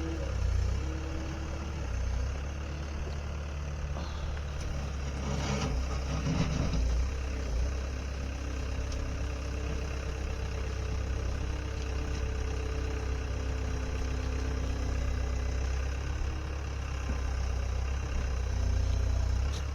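An engine running steadily at low speed, a constant low rumble with a few faint knocks.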